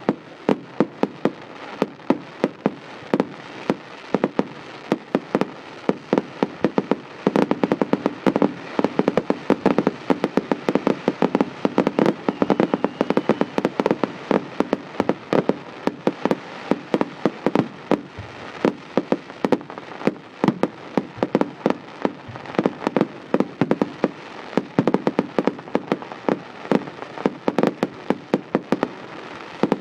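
Fireworks going off in a rapid, continuous string of sharp bangs and crackles, several a second, thickest in the middle stretch.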